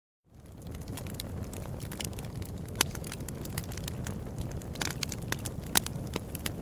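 Wood fire crackling, with a steady low rumble and frequent sharp pops and snaps scattered irregularly throughout. The sound fades in from a moment of silence at the very start.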